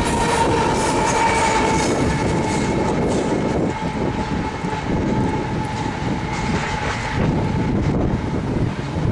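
Freight train rolling past: a steady rumble and rattle of the cars on the rails, with a thin steady squeal-like tone above it.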